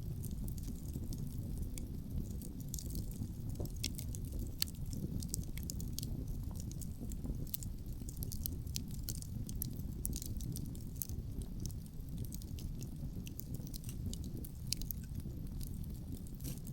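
Outdoor wood fire crackling, with many small sharp pops and snaps scattered irregularly, over a steady low rumble of wind.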